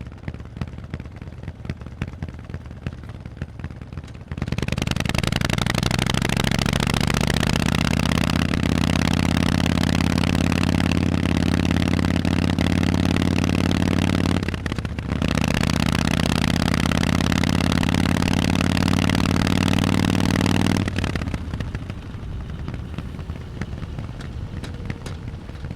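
Harley-Davidson Forty-Eight's air-cooled 1200 cc V-twin through Vance & Hines exhausts. It runs low and uneven on a closed throttle at first. Then the throttle opens and it pulls hard and loud, its pitch climbing slowly, with a brief drop for a gear change near the middle. About four-fifths of the way through the throttle closes and it falls back to the low, uneven running.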